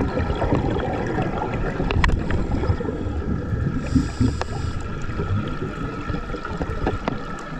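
Underwater sound on a scuba dive: a steady low rumble with crackles and a constant hum, and a diver's scuba regulator hissing briefly about four seconds in.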